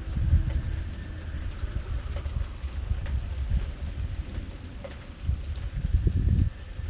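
Rain falling during a thunderstorm, with scattered drop ticks over a low, uneven rumble that surges about six seconds in.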